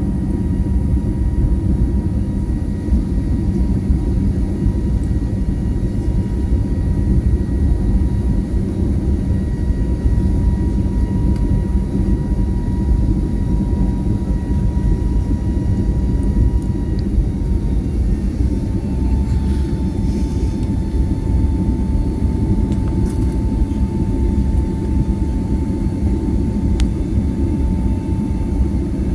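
Airbus A320neo airliner heard from inside the cabin: a steady, loud rumble of engines and airflow with a thin whine on top. The whine's pitch steps slightly lower about two-thirds of the way through.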